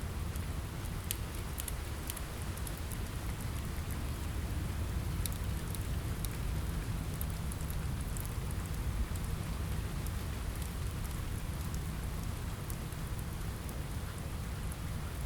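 Steady rain on a window with a low rumble beneath it, and scattered sharp, irregular crackles from a fireplace.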